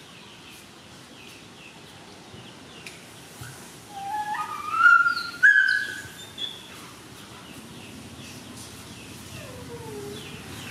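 Birds calling: a short chirp repeated about twice a second throughout, and a louder call of whistled notes stepping up in pitch about four to six seconds in. A single falling note comes near the end.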